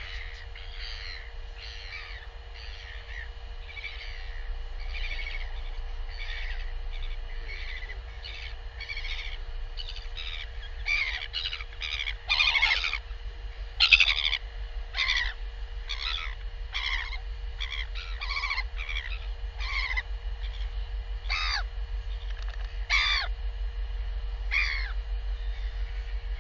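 A bird giving short calls over and over, about one a second, loudest around the middle.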